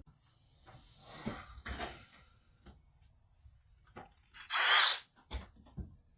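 Light knocks and handling noises of a bench vise and wooden board, with one short, loud, scratchy burst about four and a half seconds in and a couple of sharp taps after it.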